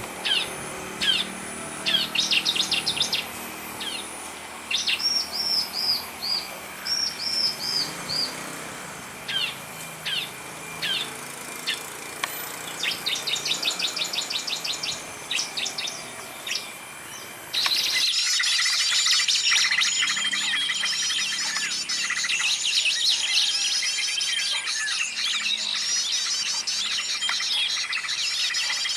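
Bird-lure recording of assorted bird calls: separate high chirps, short whistled notes and rapid trills. About two-thirds of the way through it switches abruptly to a louder, dense chorus of many birds chirping at once, like a cut to another track of the compilation.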